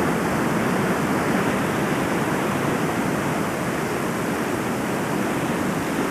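Steady, even rushing of sea surf.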